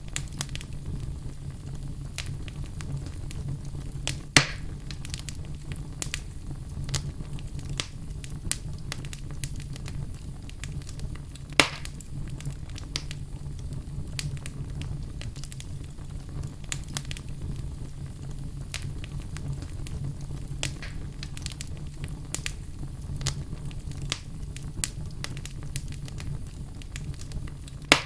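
Wood fire burning in a fireplace: a steady low rumble of flames with frequent small crackles and snaps, and a few much louder pops standing out.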